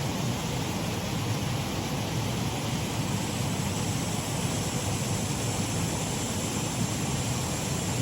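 Shallow waterfall on a stream: water running and splashing over the drop in a steady, even rush.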